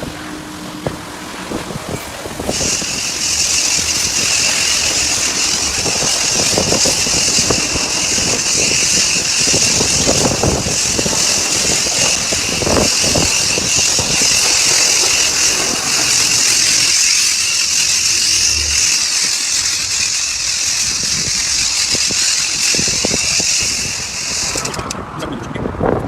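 Self-service car wash pressure lance spraying: a loud, steady hiss that starts abruptly about two and a half seconds in and cuts off near the end.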